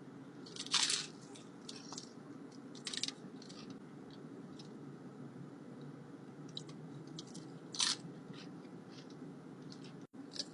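Chewing a crispy taco with a fried flour tortilla shell: three loud crunches, about a second in, at three seconds and near eight seconds, with smaller crunches between.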